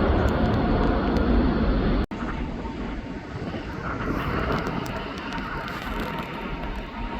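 Jet airliner engine noise, loud and steady, broken off by a sudden cut about two seconds in, after which quieter steady jet noise continues.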